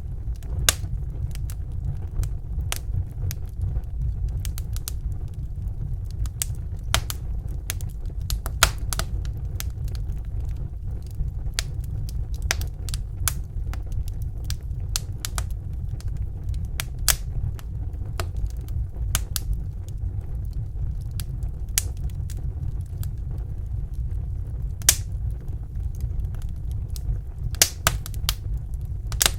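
Wood fire in a fireplace crackling: sharp, irregular pops and snaps, a few louder ones, over a steady low rumble.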